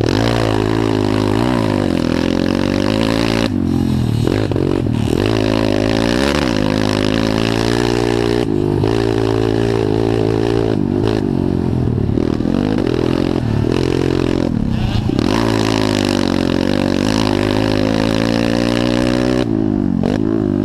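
Pit bike engine racing on a dirt motocross track, revving up and falling off over and over as the throttle is opened and rolled off through the turns and jumps.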